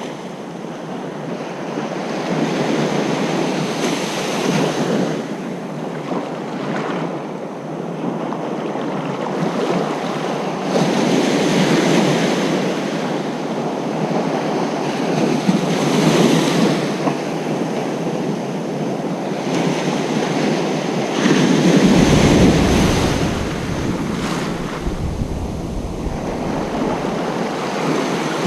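Ocean surf on a beach: waves breaking and washing in, the rushing noise swelling and ebbing every few seconds. The biggest wave breaks about three quarters of the way through, and a deeper rumble comes in with it.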